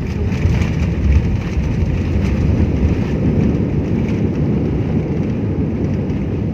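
Airliner cabin noise during landing: a loud, steady low roar of engines and airflow heard from inside the passenger cabin, easing slightly near the end.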